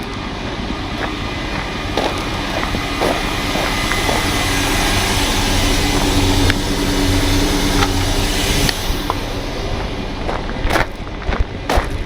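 A vehicle's engine running, growing louder to a peak around seven seconds in and then easing off, with a few short metallic clicks.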